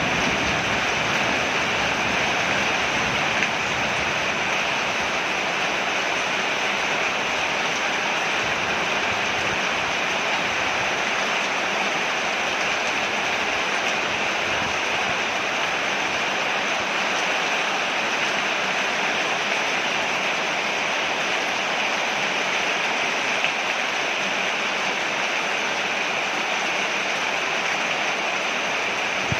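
Steady, heavy rain falling on a porch, an even unbroken hiss of water.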